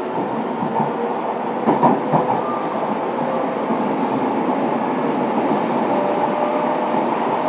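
Onboard running sound of a Fukuoka City Subway 2000 series electric train on the move: steady rolling noise of wheels on rail, with a few sharp rail-joint clicks about two seconds in and a faint motor whine coming in near the end.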